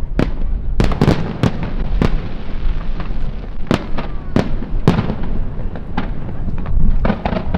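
Professional fireworks display: a rapid, irregular barrage of aerial shell bursts and reports, a dozen or so sharp bangs over a continuous low rumble and crackle.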